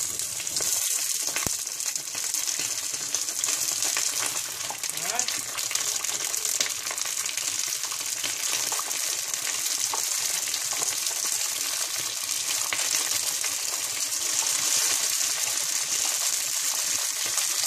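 Belyashi sizzling and crackling in hot oil in a frying pan, a steady dense hiss with constant fine popping. The oil is bubbling and spitting hard because the pan is running hotter than intended.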